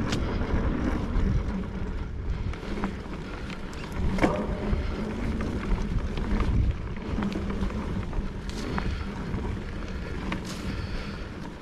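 Mountain bike rolling along a dirt trail: steady tyre and wind noise on the camera microphone, with scattered clicks and rattles from the bike over the ground.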